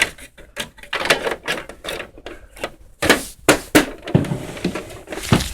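Irregular clicks and knocks of small plastic toys being handled and moved around.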